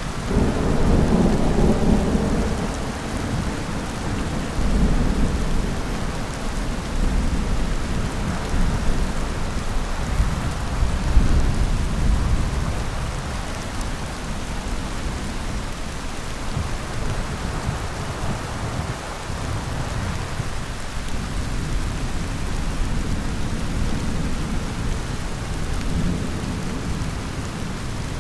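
Thunder rolling in repeated low rumbles over the steady hiss of rain, the loudest rumbles in the first few seconds and again around ten seconds in.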